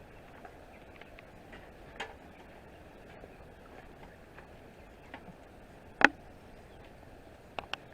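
A few scattered sharp knocks and clicks over a faint steady background, the loudest about six seconds in and two in quick succession near the end.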